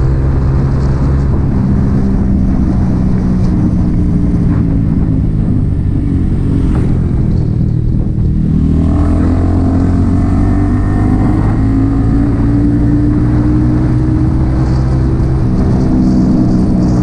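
Yamaha XSR 155's single-cylinder engine running through an aftermarket M4 exhaust while riding. The engine note eases briefly about eight seconds in, then climbs steadily as the bike accelerates and settles into a steady pull.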